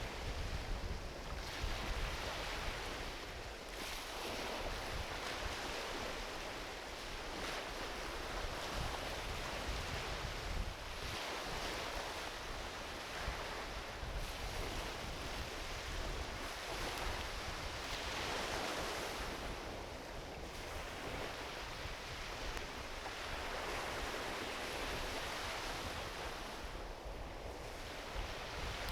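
Gentle ocean waves washing onto a beach, the surf noise swelling and easing every few seconds, with wind rumbling on the microphone.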